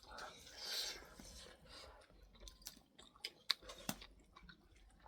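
A person chewing a mouthful of food close to the microphone, quiet, with scattered small sharp clicks.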